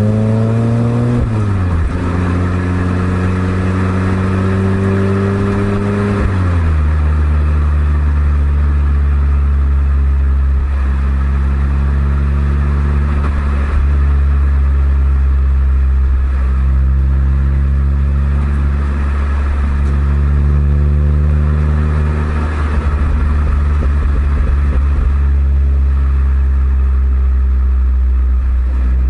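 Exhaust of a Suzuki Swift Sport ZC32S's 1.6-litre four-cylinder engine through an eight-year-old Kakimoto aftermarket muffler, on the move. The revs climb and fall sharply with a gear change about a second in, hold, drop again with another upshift about six seconds in, then settle into a steady cruising drone.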